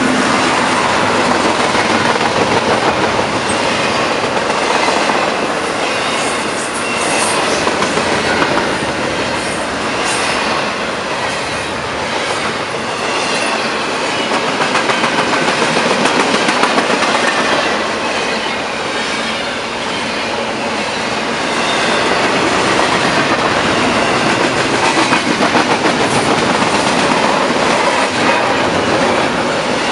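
Double-stack intermodal container freight cars rolling past, their steel wheels rumbling steadily on the rails and clicking over rail joints.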